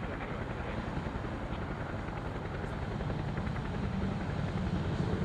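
Aircraft engine running as a steady drone with a fine rapid flutter, growing slowly louder.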